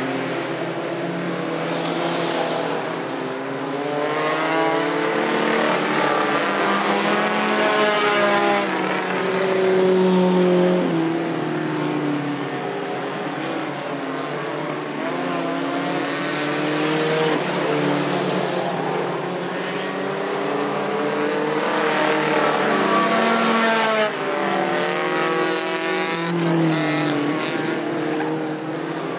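Several racing mini trucks' engines running hard around the track, their pitches overlapping and repeatedly rising and falling as they rev and ease off.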